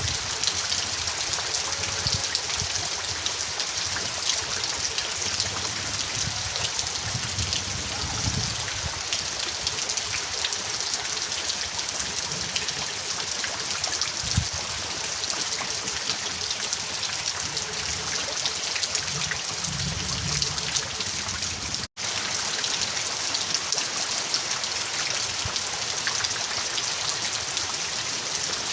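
Steady rain, a dense even patter of drops with a few low thuds. The sound cuts out for an instant about three quarters of the way through.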